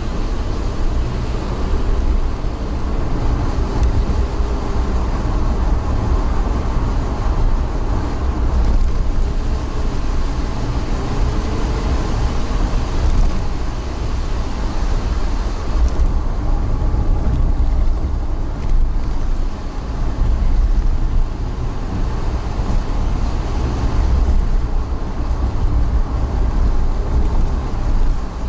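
Steady low rumble of a vehicle in motion, with a faint whine that rises and falls now and then.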